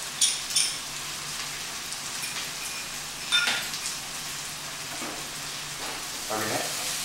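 Chopped onions, green chilli and capsicum frying in ghee in a wok, a steady sizzling hiss. Just after the start a spoon clinks twice against a small bowl as crushed ginger is tapped out, a single knock comes about three seconds in, and a wooden spatula starts stirring in the wok near the end.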